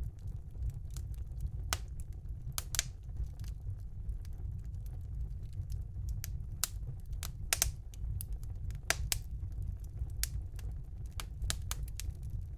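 Wood fire burning in a fireplace: irregular sharp crackles and pops, a few louder snaps, over a steady low rumble of the flames.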